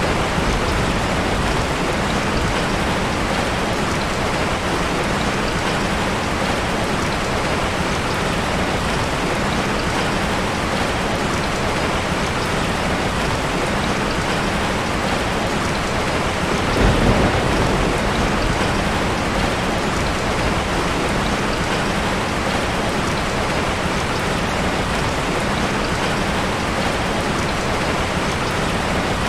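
Steady rain falling, a dense even hiss of drops on surfaces, with a brief low rumble about two-thirds of the way through.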